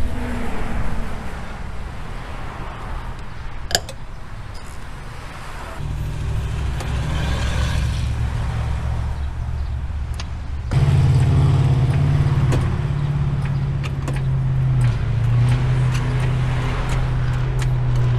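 A car engine running steadily, its pitch changing suddenly about six and eleven seconds in, with a few short clicks and knocks over it.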